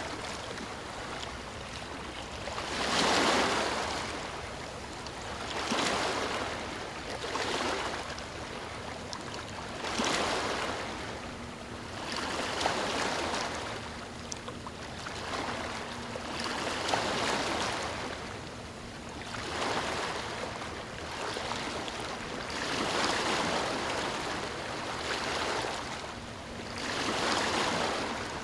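Ocean waves breaking on a beach, with a rushing wash that swells and fades again every few seconds, about ten times.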